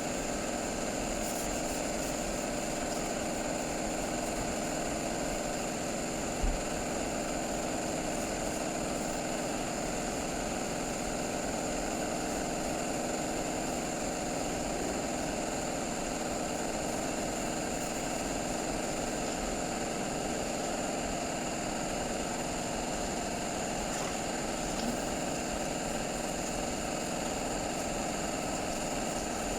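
A motor-driven machine running steadily with a constant hum made of several steady tones. A single short knock comes about six and a half seconds in.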